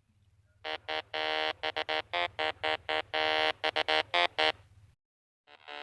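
An 8-bit style synthesized tune of short beeping notes, some quick and some held, that stops about four and a half seconds in; a different tune starts near the end.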